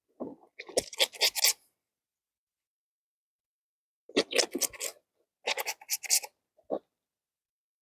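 Clothes being scrubbed by hand, fabric rubbed against fabric in quick rasping strokes. The strokes come in short spells of about a second, with pauses between.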